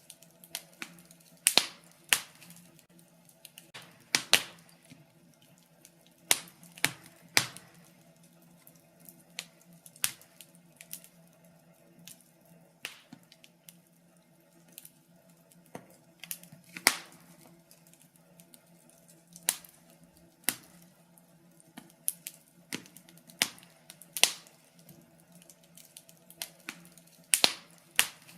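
Wood fire in a fireplace crackling, with irregular sharp pops and snaps at uneven intervals, a few of them much louder than the rest, over a faint steady low hum.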